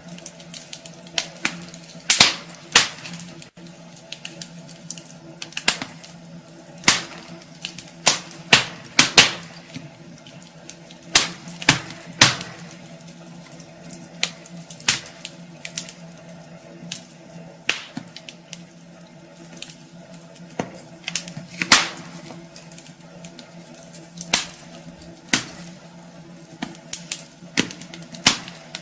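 Wood fire crackling in a fireplace: irregular sharp pops and cracks from the burning logs, some louder than others, over a steady low hum.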